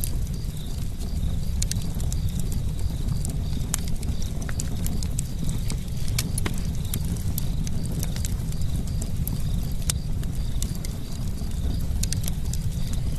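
Campfire burning: irregular sharp crackles and pops from the burning wood over a steady low rumble of the fire.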